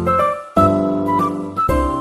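Soft background music: sustained piano or keyboard chords with a melody line, changing chord about half a second in and again near the end.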